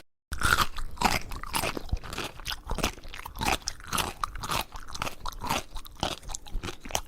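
A pet chewing something crunchy: a rapid, irregular run of crunches, several a second.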